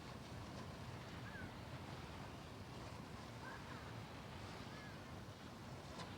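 Steady low outdoor background noise, with a few faint short chirps scattered through it.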